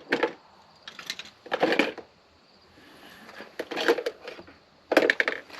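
Irregular bursts of clicking and rattling: hard plastic clips and parts being worked by hand, in five short spells with quiet gaps between.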